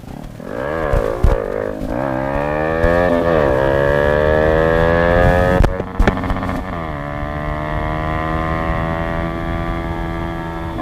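Single-cylinder sport motorcycle engine pulling away: a few quick rises and falls in revs, then the revs climb gear by gear with a short dip at each shift before holding a steady cruise.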